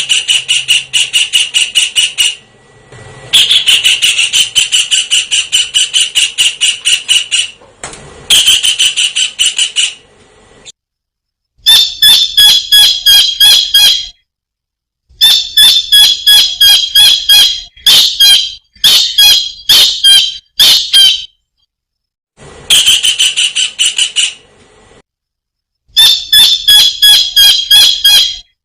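Kingfisher calling in repeated bouts of quick, sharp, high notes, about five a second. Each run lasts two to three seconds, with short pauses between.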